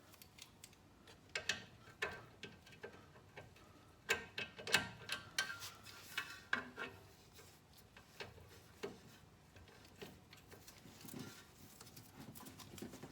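A 3/8-inch socket ratchet clicking in irregular runs as bolts are backed out by hand, with scattered metal clinks and knocks, the busiest about four to five seconds in.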